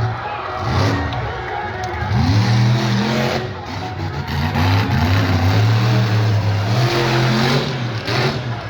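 Monster truck engine revving hard during a freestyle run, its pitch swinging up and down with the throttle and holding high and steady for a few seconds past the middle.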